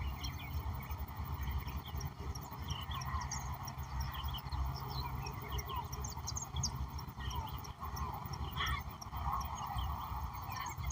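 Mixed birdsong: many short chirps and whistles from several birds overlapping, over a steady low rumble.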